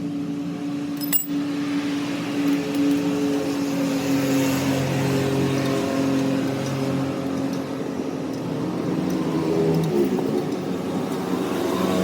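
A machine running steadily with a motor hum that shifts slightly in pitch now and then, with a sharp click about a second in.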